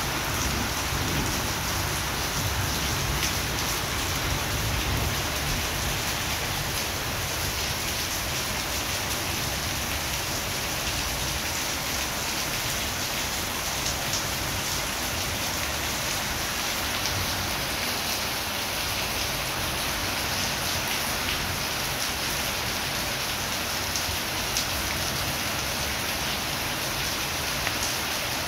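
Heavy, steady rain pouring onto paving and grass, with a few sharper drops landing close by.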